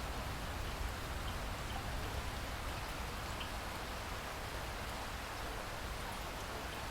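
Steady rain falling, a continuous even hiss with occasional faint drop ticks.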